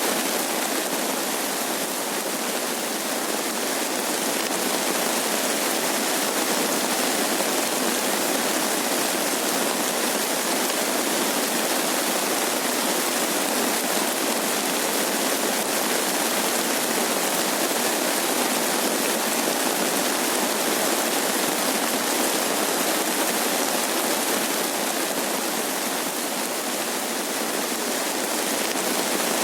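Steady rain falling, an even, dense hiss that does not change.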